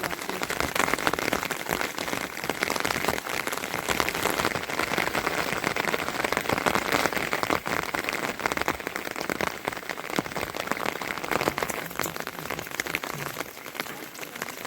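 Heavy rain falling steadily, a dense hiss of many drops that eases a little near the end.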